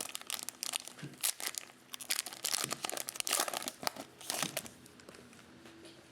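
Trading card pack wrapper being torn open and crinkled in the hands, a dense crackling that stops about four and a half seconds in.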